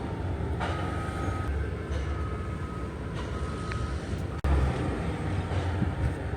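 Low rumbling vehicle or street traffic noise, with a faint high beep that sounds a few times and stops.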